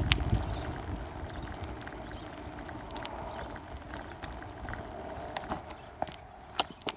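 Bicycle riding along, heard from a phone mounted on the handlebars: a steady rush of tyre and wind noise with scattered sharp clicks and rattles from the bike and mount, growing quieter toward the end.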